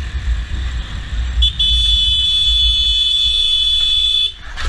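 Low rumble of a vehicle driving, with a long steady high-pitched tone starting about a second and a half in and lasting nearly three seconds.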